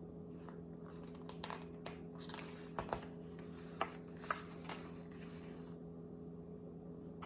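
Quiet room tone with a steady low electrical hum, broken by scattered faint clicks and soft rustles of handling.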